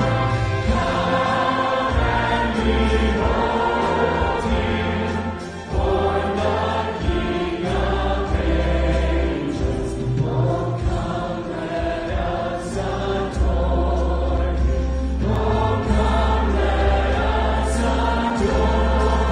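Congregation and choir singing a Christmas carol together with instrumental accompaniment, held notes over sustained deep bass, with a short breath between phrases about five seconds in.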